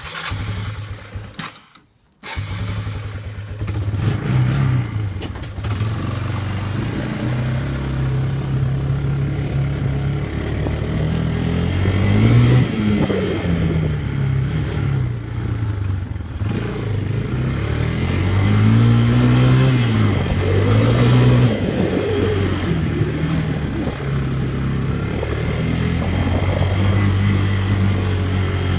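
Yamaha Bear Tracker quad's single-cylinder 230cc engine running while ridden, its pitch rising and falling several times as the throttle is opened and eased off. The sound briefly drops out about two seconds in.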